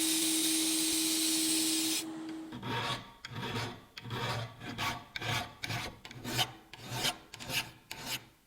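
A power tool running steadily with a constant hum cuts off about two seconds in. It is followed by about ten back-and-forth rubbing strokes by hand, roughly two a second, as a part is worked over.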